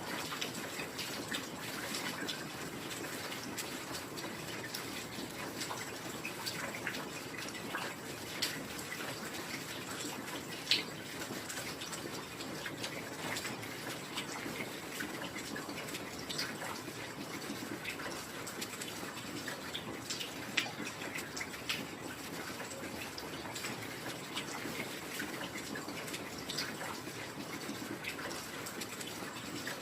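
Steady heavy rain: an even hiss of falling water scattered with many sharp drop hits, a few of them louder.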